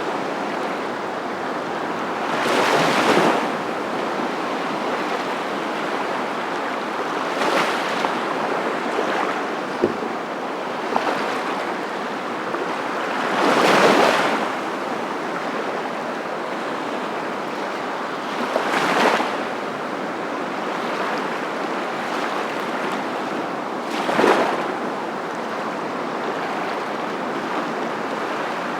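Continuous rushing water noise that swells into a louder surge about every five seconds, like surf breaking and washing in.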